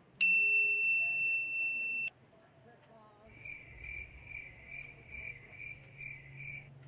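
Electronic sound effects: a bright bell-like ding struck once, ringing for about two seconds before cutting off suddenly. About a second later comes a softer high beep tone pulsing about two and a half times a second for roughly three seconds, over a low hum.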